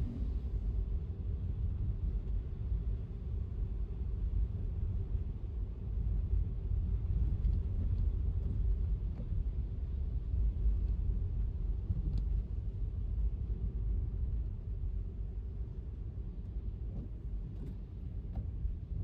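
Car driving on a wet road: a steady low rumble of tyre and road noise, with a few faint ticks.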